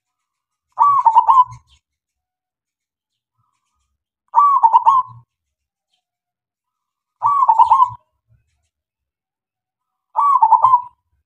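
Male zebra dove (local perkutut) singing its cooing song: four short phrases of quick, rolling coos, each under a second, spaced about three seconds apart.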